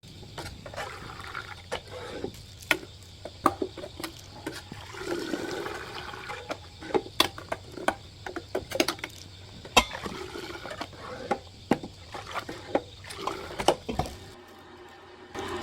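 Liquid sloshing and splashing, broken by frequent sharp knocks and clinks.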